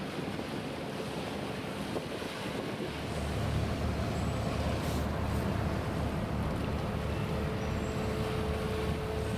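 Outdoor harbour ambience: wind buffeting the microphone over a low rumble with a faint steady hum, as a large container ship moves through the port. The low rumble thins for the first few seconds, then comes back stronger about three seconds in.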